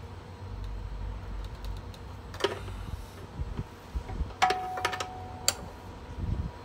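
A few sharp metallic clicks and clinks from tools or hand handling metal parts at a wheelchair lift's hydraulic hose fitting, one of them ringing briefly.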